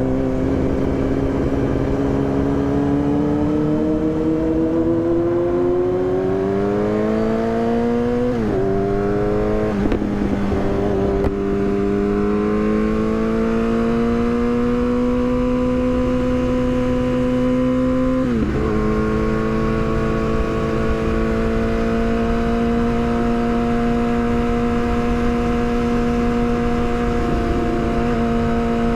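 Yamaha R6's inline-four engine under way. Its revs climb for about eight seconds, then drop with an upshift. They hold nearly steady until another upshift about two-thirds of the way through, then settle at steady cruising revs. Wind buffets the microphone underneath.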